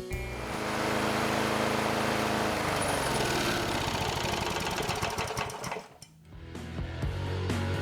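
Small gasoline engine running under a brake load, its pitch sinking as it slows. The engine sound drops away about six seconds in, and background music comes back near the end.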